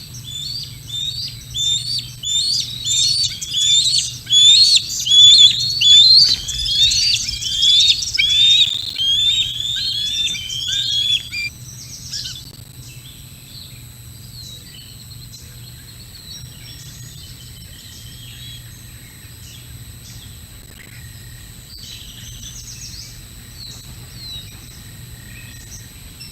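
Birds calling: a fast, loud run of high, downward-slurred chirping notes, several overlapping, that stops about eleven seconds in. After that only faint scattered chirps remain.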